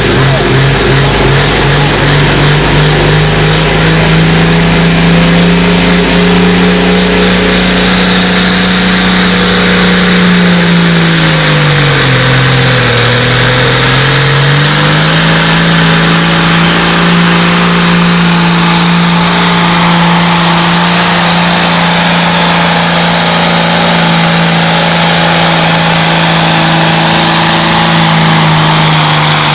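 Tractor-pulling tractor engine running loud at high revs under load. About twelve seconds in its pitch sags, then climbs back over a couple of seconds and holds steady, with a faint high whine over it.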